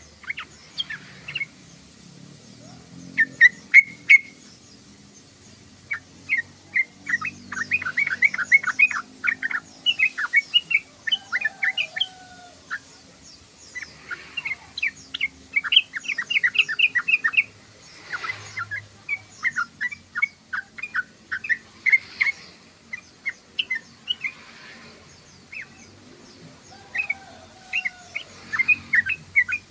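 Yellow-vented bulbul (trucukan) chattering: quick runs of short bubbly chirps, each run a second or two long, repeated every few seconds.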